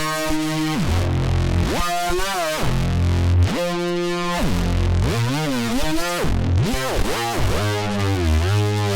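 Arturia MiniFreak synthesizer playing a preset: held notes rich in overtones whose pitch repeatedly swoops down and back up, over a low bass note.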